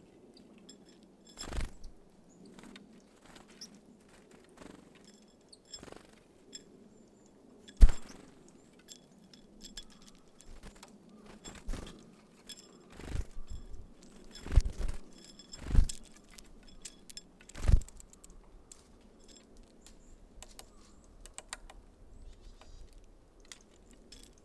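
Small birds such as tits at a feeder tapping and knocking as they land and peck at sunflower seeds: irregular sharp knocks and light clicks, a few with a dull thud, the loudest about eight seconds in.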